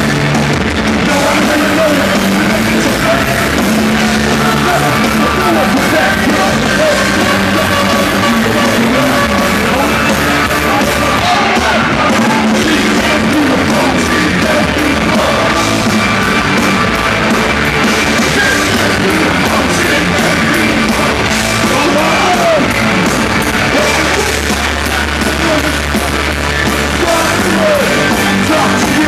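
Loud live rock band playing, with yelled, shouted vocals over distorted guitars and drums.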